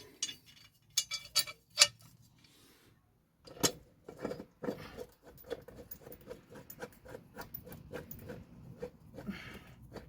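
Sharp metallic clicks and knocks of tool and mower parts being handled, then, after a short pause, a steady run of light ticks, about three a second.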